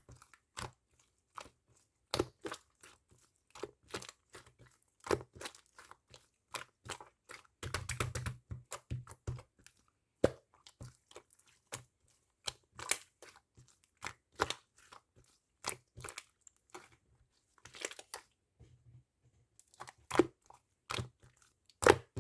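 Marbling slime being squeezed and pressed by hand, giving irregular sharp clicks and pops, with a couple of longer crackly stretches about eight seconds in and again near eighteen seconds.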